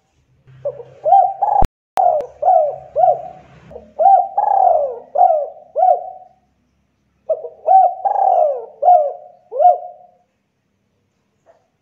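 Spotted dove cooing in two phrases of repeated, hooked coo notes, with a pause of about a second between them. Two sharp clicks come about two seconds in.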